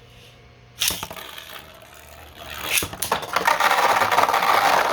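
3D-printed Beyblade tops launched with a ripcord about a second in with a sharp zip. From about three seconds in they scrape and clatter loudly against each other and the stadium as they battle.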